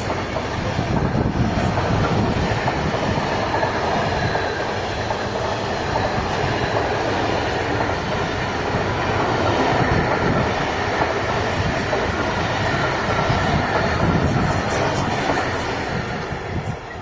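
A train passing close by: a steady, loud rumble and rattle of wheels running on the rails.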